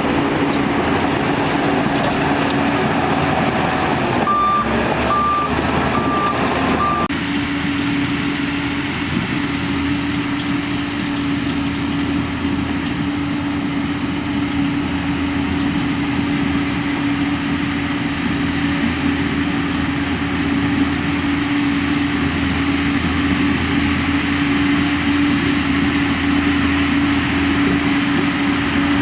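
Heavy earthmoving machinery's diesel engine running steadily under work, with a reversing alarm beeping four times about four seconds in. The engine sound changes abruptly about seven seconds in.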